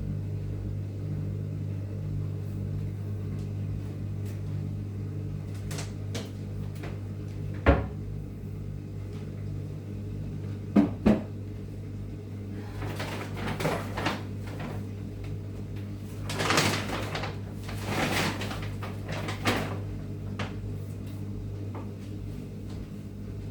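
Household cleaning sounds: a sharp knock, then a quick double knock, followed by several bursts of rustling or scraping as things are handled and wiped, over a steady low electrical hum.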